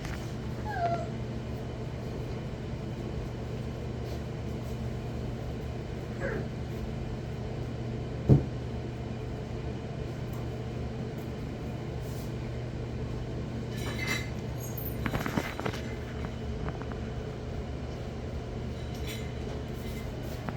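Puppies whining and yipping now and then in short falling cries, the loudest about eight seconds in, over a steady low hum. A brief clatter of light clicks comes about 14 to 16 seconds in.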